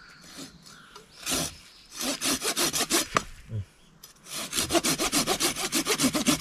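Hand saw cutting wood in quick back-and-forth strokes, about five to six a second. One stroke comes about a second in, then a short run of strokes, a brief pause a little after three seconds in, and steady sawing again.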